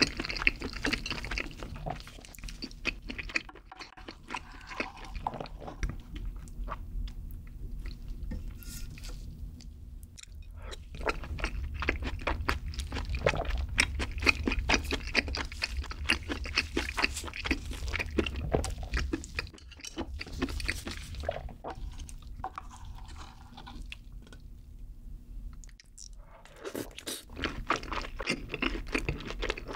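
Close-miked chewing of a mouthful of creamy carbonara tteokbokki with pasta: a dense run of wet, sticky clicks and smacks, easing off briefly near the end before picking up again.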